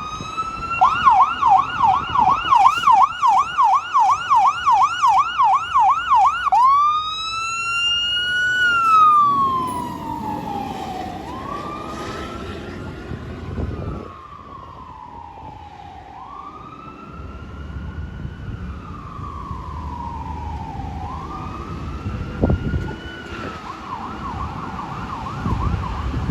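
Fire truck's electronic siren on an emergency run: a rising wail, then a fast yelp at about four cycles a second, then slow rising-and-falling wails that grow fainter. A short burst of yelp returns near the end.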